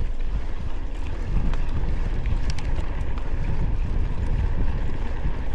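Wind buffeting the microphone: a loud, uneven low rumble with a few faint ticks.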